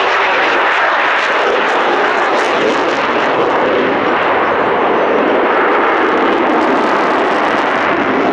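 Jet aircraft flying an air-show display, its engine noise loud and steady.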